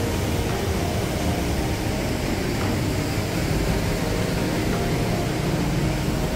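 Steady rush of fast-flowing water from the gorge's mountain river, an even, unbroken noise.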